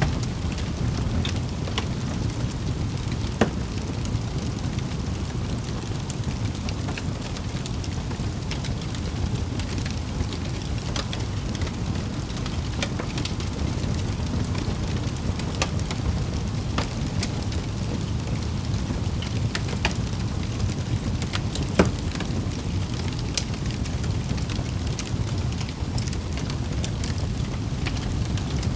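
Wood fire crackling in a fireplace: a steady low rumble of flames with scattered sharp crackles, and louder pops about three seconds in and about twenty-two seconds in.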